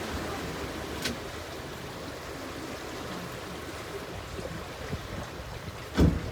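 Steady wash of river water and wind noise, with a sharp click about a second in and a short knock near the end.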